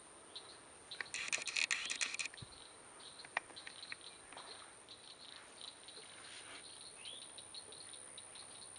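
Wetland animal sounds: many short high chirps and a steady high whine, with a loud harsh rattle of rapid clicks about a second in that lasts about a second.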